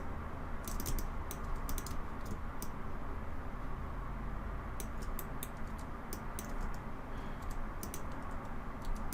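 Computer keyboard keys clicking in short irregular clusters as hotkeys are pressed, over a steady low background hum.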